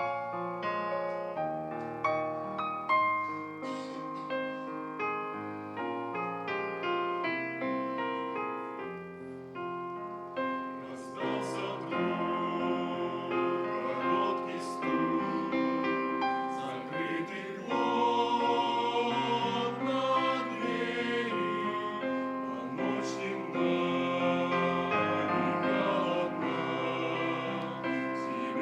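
Church choir hymn: a piano plays the introduction, and about eleven seconds in the choir enters singing with the piano accompanying.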